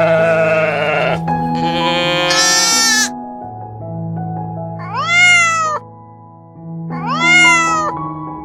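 Animal calls over soft background music with steady held notes: a wavering call at the start, a higher rising call soon after, then two calls that rise and fall in pitch, about two seconds apart.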